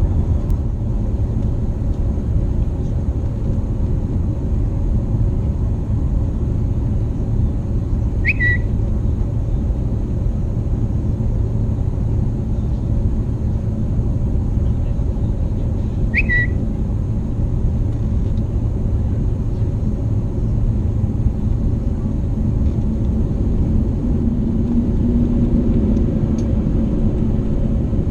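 Airbus A350-900 cabin noise heard from a seat: a loud, steady, low rumble from the engines and airflow. Two identical short, high chirps sound about eight seconds apart, and a low hum grows a little louder near the end.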